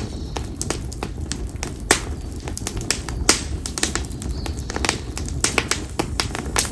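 Konara oak firewood burning in an open bonfire, crackling and popping with frequent irregular sharp snaps over a steady low rumble of flame.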